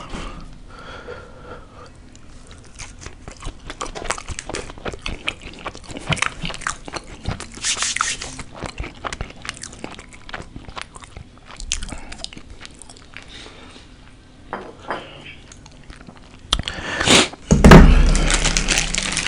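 Close-miked eating sounds: biting into and chewing a red hot beef burrito, wet mouth clicks and smacks throughout, with a louder stretch of noise near the end.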